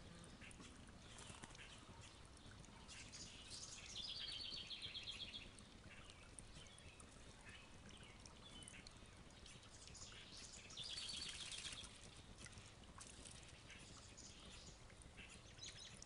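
Faint songbirds in the yard: scattered high chirps, with a short rapid trill about four seconds in and another about eleven seconds in.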